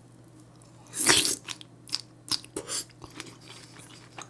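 Close-miked eating: a loud bite of a spoonful of kimchi stew about a second in, then several short crunches as the kimchi is chewed.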